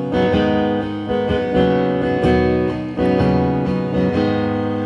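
Acoustic guitar strummed in chords, each chord struck roughly once a second and left ringing between the sung lines of a song.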